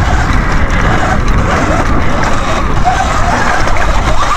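Electric dirt bike ridden over a rough off-road trail: a loud, continuous rumble of wind and jolts on the microphone, with the bike rattling and knocking over the bumps.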